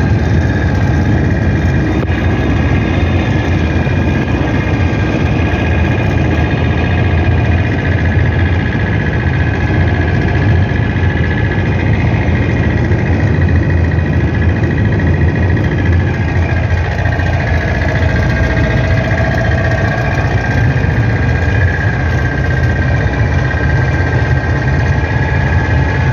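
Vehicle engine and road noise heard from inside the cab while driving at a steady speed: a continuous low rumble with a steady high whine over it.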